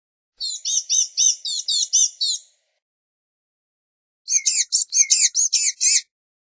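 Blue-gray gnatcatcher singing: two phrases of rapid, thin, high-pitched notes, about ten notes each over roughly two seconds, separated by a pause of about two seconds.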